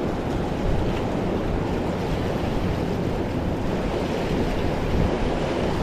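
A high, fast river rushing steadily close by, an even roar of churning whitewater.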